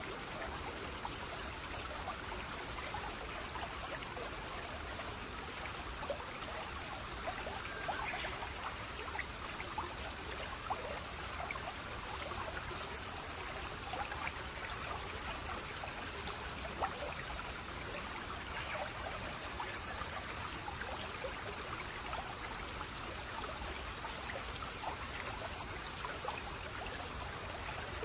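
Shallow stream trickling and babbling steadily over stones, with many small splashes. A faint high trill comes and goes a few times.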